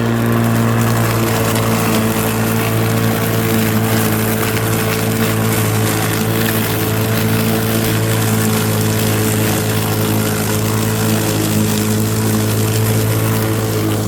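Ryobi 18-volt cordless lawn mower, running on two batteries together, cutting and picking up a thick layer of leaves: a steady motor-and-blade hum over a loud hiss of leaves going through the deck.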